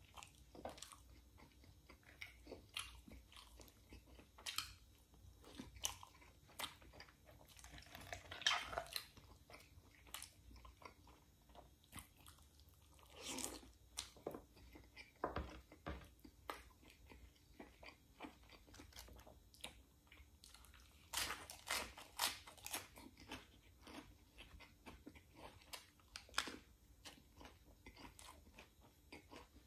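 A person chewing and biting rotisserie chicken and pita bread close to the microphone: a steady run of soft mouth clicks and crunches, with a few longer, louder bursts of chewing.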